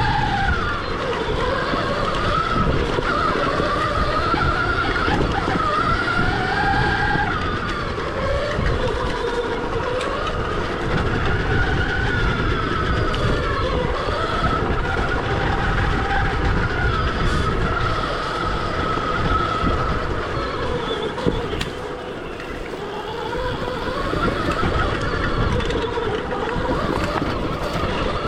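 Stark Varg EX electric dirt bike's motor whining, its pitch rising and falling again and again with the throttle, over a steady low rumbling noise.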